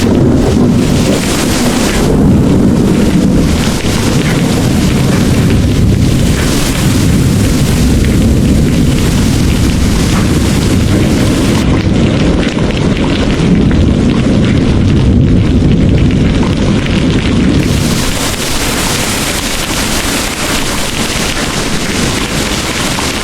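A long rumble of thunder over steady heavy rain. The rumble starts right away, holds for most of the stretch, and eases off about three quarters of the way through, leaving the rain hiss.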